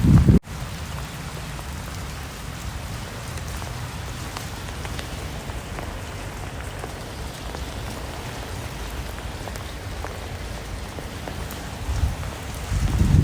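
Steady rain falling: an even hiss with scattered drops ticking on a surface. A louder low rumble stops abruptly just after the start, and a low rumble builds again near the end.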